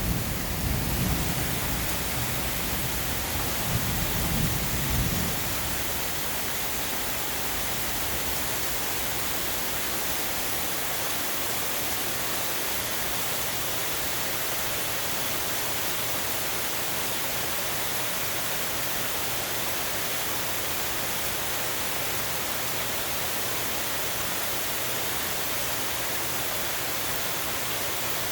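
Steady hiss of falling rain, with a low rumble of thunder dying away over the first five seconds or so.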